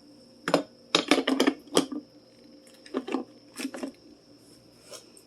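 Light clicks and clinks of kitchen items being handled while a drip coffee maker is set up: a quick cluster about a second in, then a few more spaced out.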